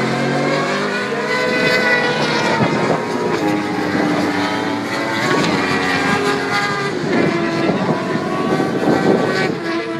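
1000cc superbike engines running hard on the race track, several machines at once, their pitches rising and falling against one another.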